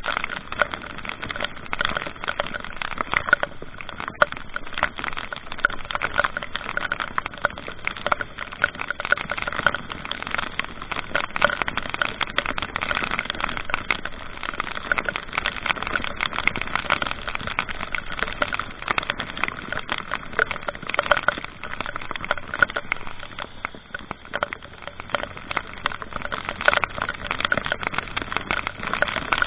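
Steady rushing noise of a vehicle travelling on the road, thick with small crackles throughout.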